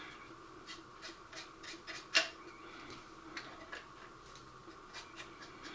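Brush working weathering powder onto a plastic model building: a quiet string of light, scratchy strokes, with one sharper tap about two seconds in.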